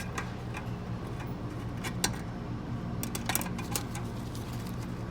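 A few light metallic clicks and clinks, the sharpest about two seconds in and a small cluster around three seconds, as metal parts are fitted into an automatic transmission case, over a steady low hum.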